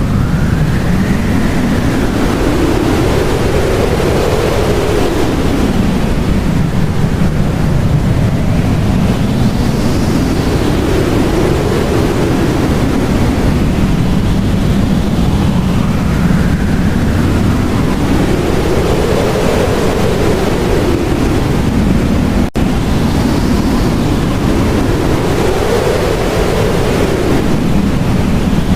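Blizzard wind blowing hard and steadily, with howling gusts that rise and fall in pitch every few seconds. There is a brief cut in the sound about three-quarters of the way through.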